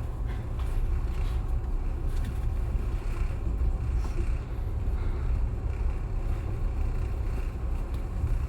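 Passenger train running along the line, heard from inside the carriage as a steady low rumble.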